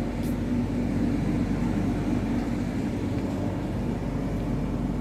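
Steady low drone of an idling truck's diesel engine, unchanging throughout.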